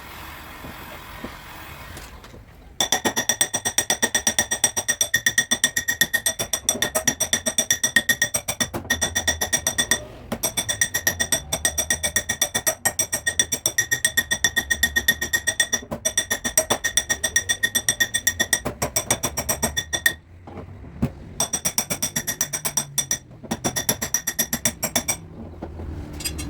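Hammer tapping fast on car body sheet metal, several strikes a second, each with a ringing metallic tone. The taps come in long runs with short breaks, then in shorter runs near the end.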